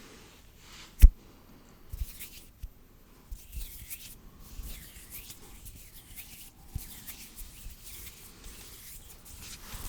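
Close-miked ASMR hand sounds: palms and fingers rubbing and brushing together in soft, airy swishes, with one sharp click about a second in.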